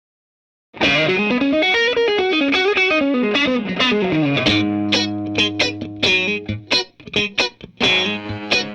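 Distorted electric guitar playing fast runs of notes up and down, starting after a brief silence. About four and a half seconds in, the band comes in with a held low bass note under short, choppy chord hits.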